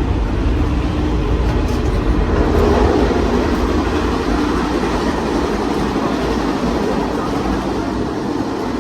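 Steady running noise of a moving passenger train heard from inside the car: a low rumble with rail and wheel noise.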